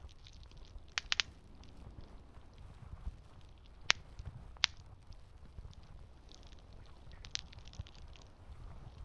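Wood campfire crackling, with scattered sharp pops from the burning wood: a quick cluster about a second in, then single louder pops around four seconds, just after, and again past seven seconds, over a low steady rumble.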